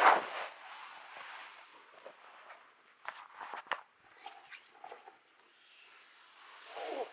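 Massage sounds of hands or a tool moving over skin and fabric. A loud swish comes at the start, then a run of small clicks and crackles a few seconds in, and another swish near the end.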